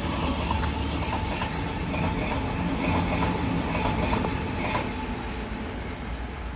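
Sydney Trains double-deck electric suburban train running along the tracks, a steady rumble of wheels on rail that eases slightly near the end as the train draws away.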